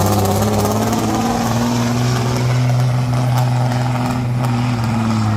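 Caterpillar diesel engine of a pulling truck running hard under load, its pitch climbing slightly and then easing off near the end.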